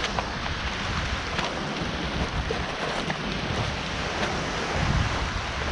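Sea surf washing on a rocky shore, with wind rumbling on the microphone and a few faint clicks.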